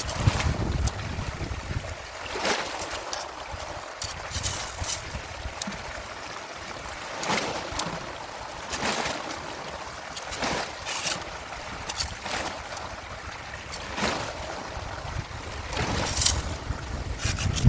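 Strong wind buffeting the microphone over a steady rush of water, with a short sharp swish every second or two.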